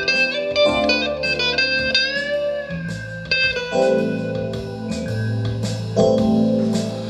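Live jazz-blues band playing an instrumental passage: a guitar plays a lead line with bent, sliding notes over held bass notes.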